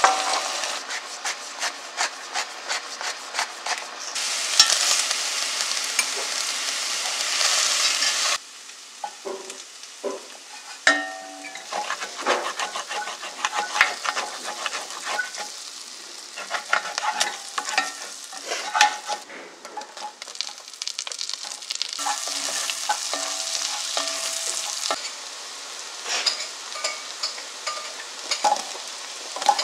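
Chicken strips sizzling in oil in an enamelled cast-iron pot. About eight seconds in the sizzling cuts off abruptly, and a wooden spatula scrapes and knocks against the pot bottom over quieter frying, lifting the stuck-on bits of meat as butter melts. Later, sliced onions sizzle as they are stirred and browned.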